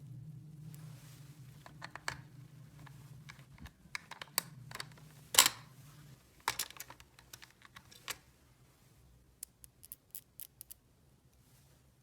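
Small plastic toy pieces being handled: irregular clicks, taps and light scraping, the loudest click a little past halfway. A low steady hum underneath stops about halfway through.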